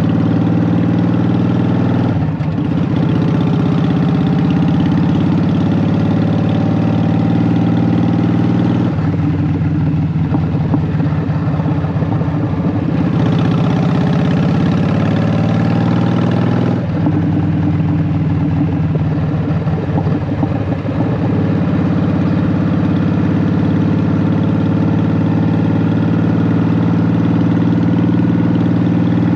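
Honda Shadow VT750 V-twin engine running through Vance and Hines Short Shot exhaust pipes at a steady pitch. Its tone shifts a few times: about two seconds in, around nine seconds, and again around thirteen and seventeen seconds, before it settles back to a steady tone.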